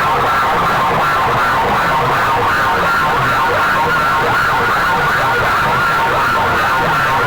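Competition DJ sound systems playing at full volume: a constant, distorted wall of sound with wavering siren-like tones over a repeating bass pattern.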